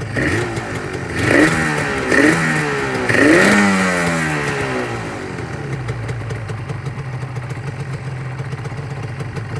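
Yamaha R1-Z's two-stroke parallel-twin engine idling and being blipped about four times in the first few seconds, each rev rising and falling back, the last one longest, then settling back to a steady idle. The revs are kept low.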